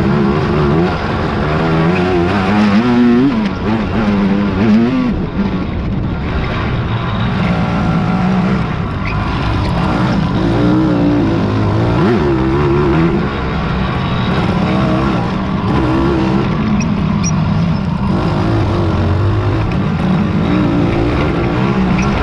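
Several racing quad ATV engines revving hard over off-road terrain, with overlapping engine notes rising and falling as the riders work the throttles.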